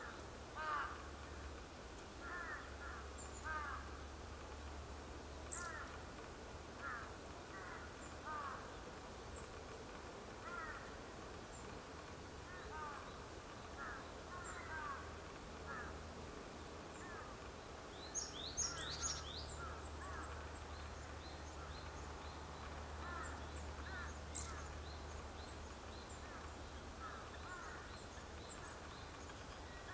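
Birds calling: short calls repeat every second or two, with a brief cluster of high, thin notes about two-thirds of the way in, over a low steady hum.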